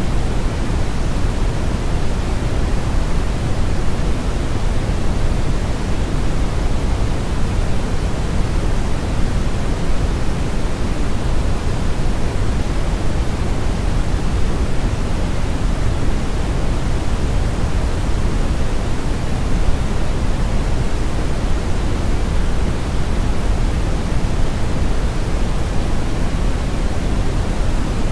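Steady brown noise: an even, unchanging rumble of random noise weighted heavily to the low end, with the highs rolled off.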